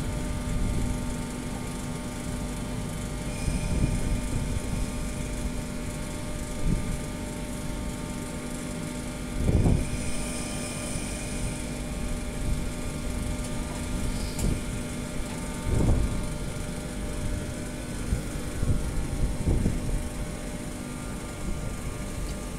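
InterCity 225 train with Mark 4 coaches moving slowly alongside the platform: a steady electric hum and low rumble, with a few short low thumps.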